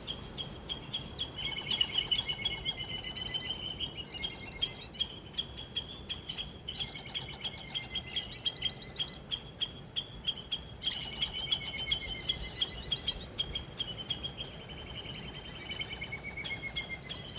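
Small birds singing: rapid, high chirping trills in bouts of a few seconds, with sparser chirps between them.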